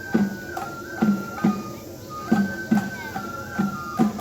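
Japanese festival music for a lion dance: a high flute plays held notes stepping between a few pitches over drum strokes about twice a second.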